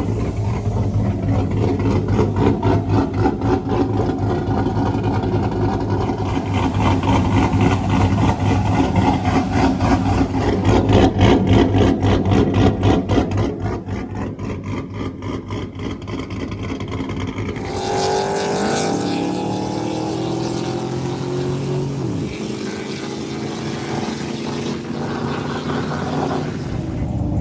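Pickup truck V8 engines running: a heavy idle with a fast, even pulse, swelling louder about ten seconds in, then easing off. Later an engine's pitch is heard falling as it comes off the revs.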